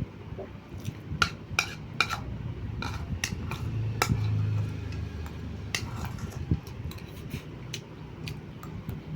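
Cutlery clicking and scraping against a plate or bowl during a meal of noodles and rice, a dozen or so sharp clinks at irregular intervals. A low, steady hum swells about four seconds in and fades half a second later.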